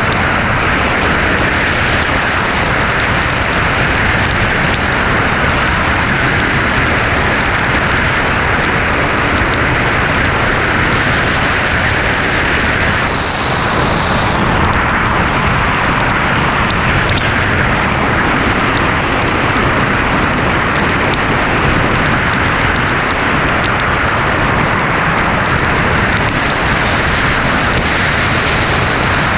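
A car driving in heavy hurricane rain: a steady rush of rain and wet-road tyre noise over a low rumble, with a brief higher hiss about halfway through.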